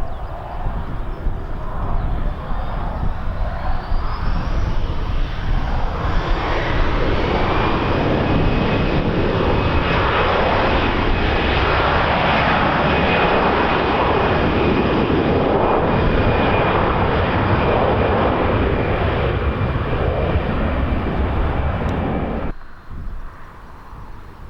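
Airliner's turbine engines growing loud, with a high whine that rises in pitch and then holds steady over a heavy rush. The sound cuts off abruptly near the end, leaving quieter wind noise.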